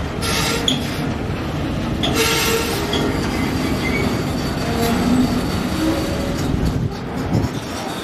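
Empty container flatcars of a freight train rolling past, a steady loud noise of steel wheels on the rails. Two short high screeches of the wheels come about half a second in and about two seconds in, with a faint thin squeal held for a few seconds in the middle.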